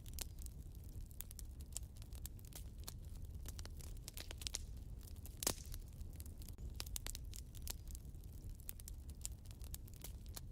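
Fire burning in a fireplace, crackling: a steady run of irregular sharp snaps over a low rumble, with one louder pop about halfway through.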